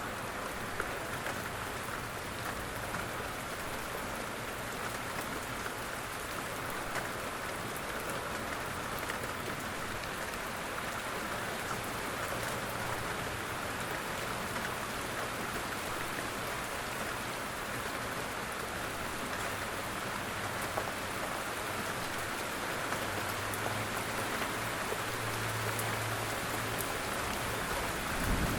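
Steady rain falling on a surface: an even hiss with scattered faint drop ticks. A low hum runs faintly underneath and grows louder over the last few seconds.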